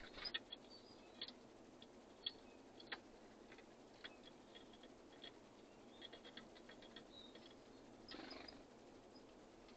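Birds at a feeder: a few sharp taps and clicks of beaks pecking, loudest in the first three seconds, with scattered faint high chirps and a brief rustle a little after eight seconds.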